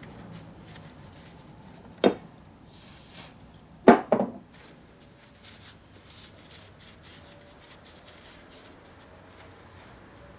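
Two sharp knocks about two seconds apart, the second with a short clattering tail, then faint light clicks and rubbing: parts or tools being handled and set down on a workbench.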